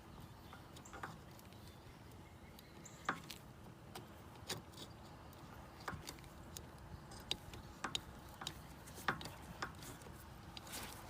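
Irregular light clicks and knocks of hand tools and parts being handled while working on an ATV's fuel system, about a dozen scattered taps with no engine running.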